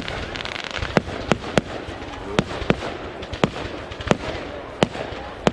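Fireworks display: a run of about nine sharp bangs from bursting aerial fireworks at uneven intervals, over a steady noisy background.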